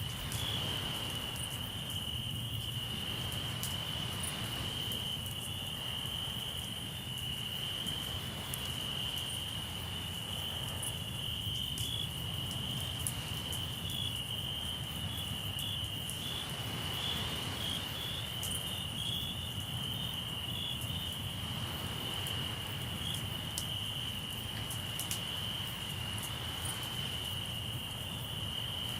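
Crickets trilling steadily and without a break at a single high pitch. A low steady rumble and faint scattered crackles sit underneath.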